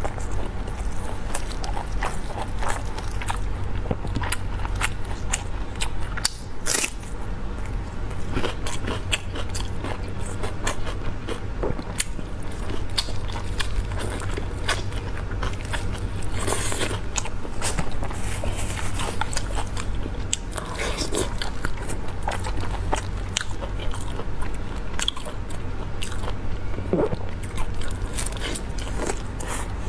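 Close-miked biting and chewing of sauce-covered meat on the bone, with many small sharp clicks throughout over a steady low hum.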